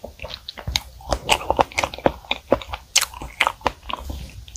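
Close-miked chewing of a mouthful of strawberry chocolate cream cake: a quick, irregular run of wet mouth clicks and smacks.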